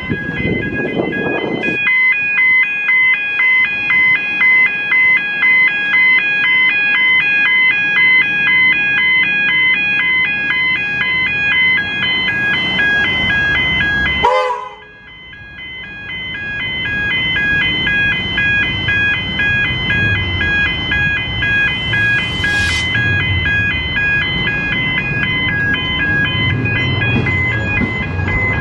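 Level crossing warning bells ringing, an electronic chime repeating about one and a half times a second. The sound breaks off about halfway and starts again, with a low rumble underneath in the second half.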